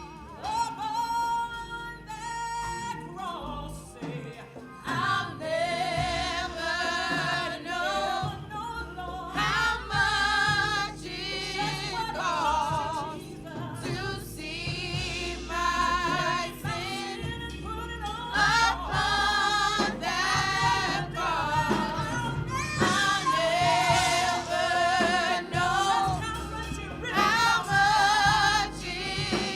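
Gospel praise song: a solo voice singing with heavy vibrato over band accompaniment with bass and drums.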